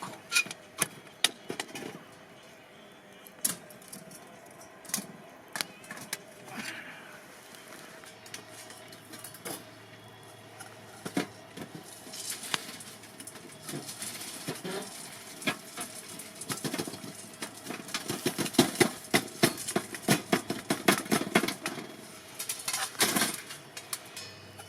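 Camp gear being handled: a string of small clicks, knocks and rattles of hard objects, growing into busier clatter in the second half.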